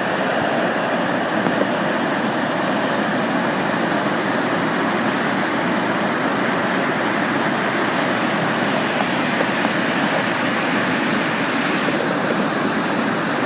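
River water rushing steadily over rapids, a dense, even roar without pauses.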